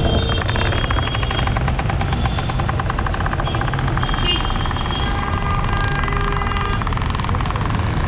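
Road traffic: a steady low rumble of vehicles and engines, with a rapid buzzing pulse in the first few seconds and several horn tones sounding through the middle.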